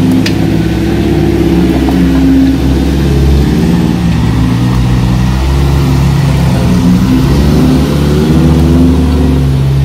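Off-road 4x4's engine running under load as it crawls over a rocky, muddy track, the revs rising and falling again and again.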